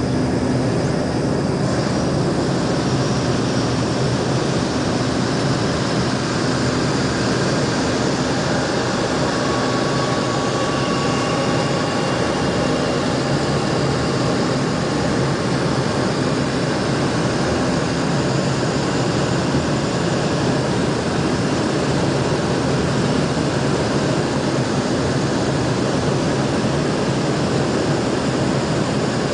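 Steady drone of an airplane's engines and rushing air, heard from inside the cabin, with a faint low hum running through it.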